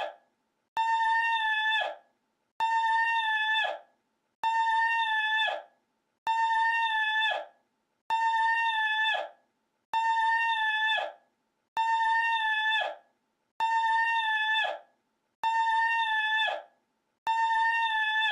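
A short, high, steady-pitched call with many overtones, looped identically about every two seconds, each repeat ending abruptly; about ten repeats.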